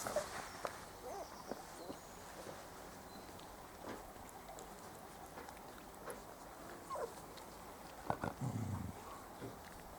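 Four-week-old Spanish Water Dog puppies giving scattered short squeaks and whimpers, with a brief low rumble about eight seconds in.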